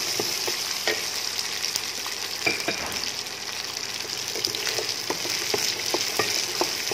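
Turkey berries sizzling in hot oil in a non-stick kadai while a wooden spatula stirs them, with irregular soft knocks and scrapes of the spatula against the pan.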